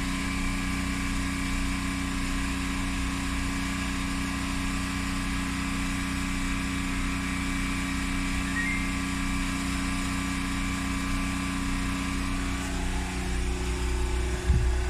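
Steady mechanical hum with several fixed tones over a low rumble, typical of a refrigerator's compressor and fans running. Near the end the tones shift to a new pitch.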